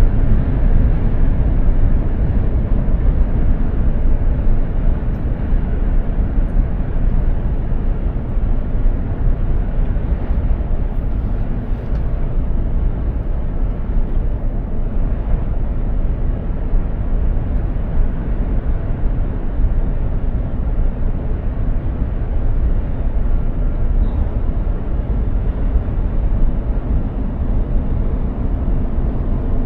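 Mercedes-Benz Actros 2763 truck driving along the road: a steady low drone of its diesel engine mixed with tyre and road noise, with no change in pace.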